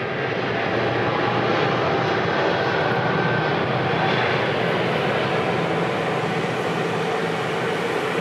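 Airbus A320 jet engines running steadily: a continuous rush with a faint steady whine, not rising or falling.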